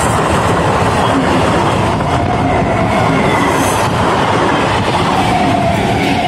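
EMU local train passing at speed close by: a loud, steady rumble and clatter of its wheels and bogies on the rails. A thin wheel squeal comes in near the end, as the train takes the curve.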